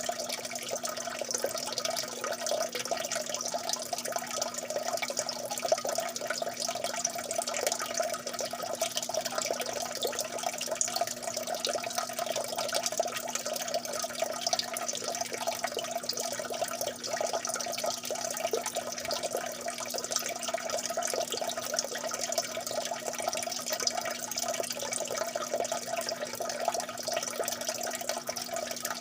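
Water dripping and trickling steadily, a dense stream of small drops without pause.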